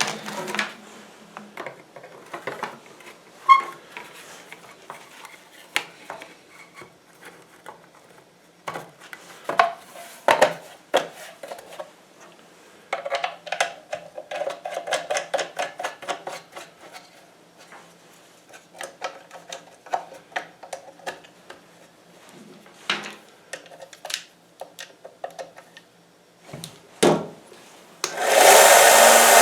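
Scattered clicks, taps and rubbing as the belt sander is handled and worked on by hand. About a second before the end, the Harbor Freight 1x30 belt sander's motor switches on and runs with a steady hum.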